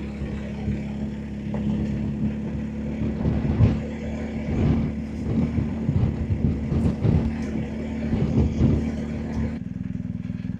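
BMW R1250GSA motorcycle's boxer-twin engine running steadily as the bike is ridden, with the sound thinning out about a second before the end.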